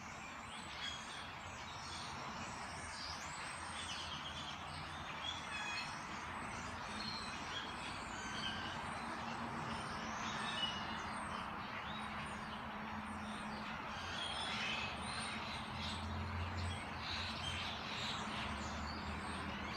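A dense chorus of many birds chirping and calling, overlapping with no pause, over a steady low hum.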